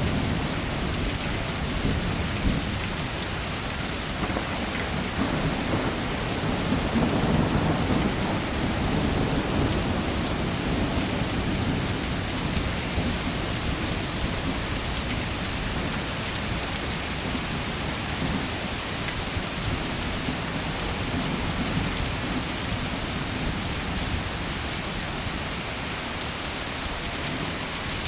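Steady rain, a dense even hiss, with a low rumble underneath that swells and fades a few times, strongest about a quarter of the way in.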